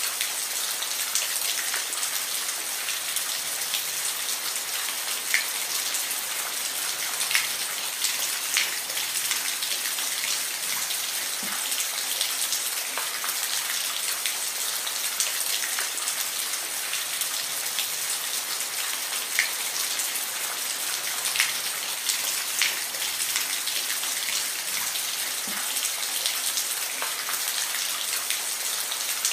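Steady rainfall: an even hiss of rain with individual drops ticking sharply on a surface now and then.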